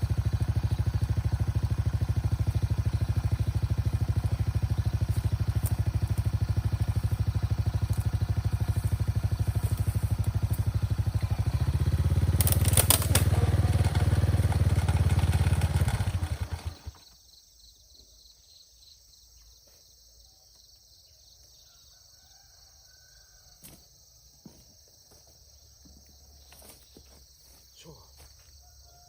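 A small engine running steadily with an even low pulse. It picks up and gets louder about twelve seconds in, then is shut off abruptly about sixteen seconds in, leaving only faint clicks and rustles.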